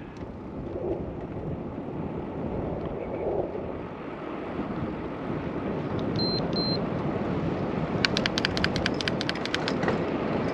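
Wind and tyre noise of a moving bicycle, growing louder as it goes. Two short high beeps come a little past the middle, and a rapid run of sharp ticks about two seconds long comes near the end.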